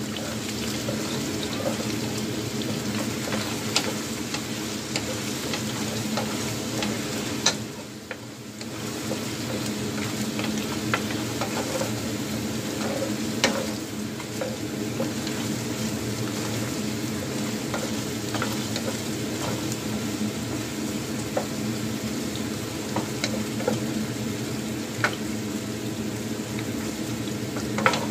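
Chicken wings sizzling as they fry in a granite-coated pan, stirred with a wooden spatula that knocks against the pan now and then with sharp clicks. The sizzle briefly drops away about eight seconds in.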